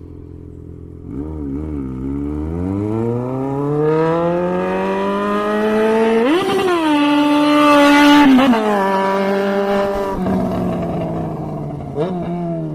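Yamaha XJ6's 600 cc inline-four running loud through a straight-piped exhaust with no muffler. It idles, is blipped twice, then the revs climb steadily for several seconds, jump higher and hold briefly, and fall away again, with a short blip near the end.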